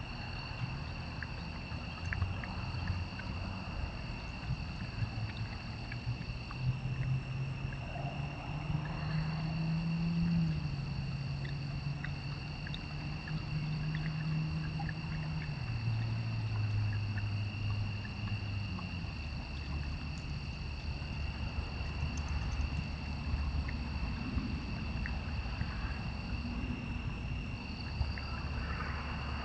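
Steady high-pitched trilling of night insects such as crickets, over a low hum that shifts pitch in steps, with a few faint ticks.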